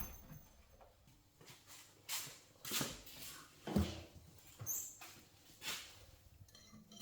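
Irregular knocks and scrapes of hand tools and metal parts being handled, with about five louder strikes and a brief high squeak near the middle.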